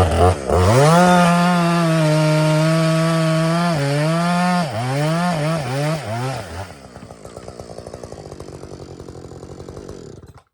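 Husqvarna 562XP two-stroke chainsaw revved up to a steady high-rev run, then blipped up and down a few times before dropping to idle, which cuts off abruptly near the end.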